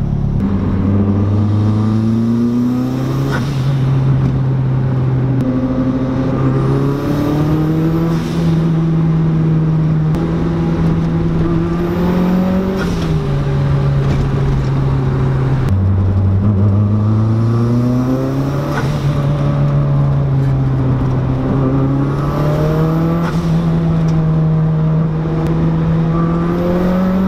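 Turbocharged Mazda Miata's four-cylinder engine, heard from inside the cabin, pulling hard under full throttle in repeated boost and turbo-lag test runs. The engine note climbs steadily with the revs, holds, then drops back, several times over.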